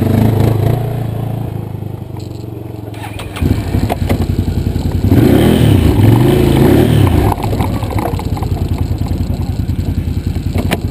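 Off-road quad or side-by-side engine running hard in mud, revving so its pitch rises and falls twice between about five and seven seconds in. The engine gets louder about three and a half seconds in.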